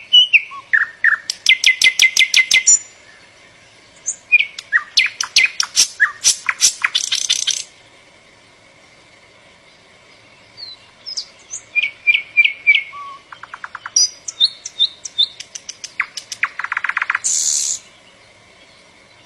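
A songbird singing a varied song: phrases of quick whistled notes, fast trills and buzzy notes, with short pauses between phrases.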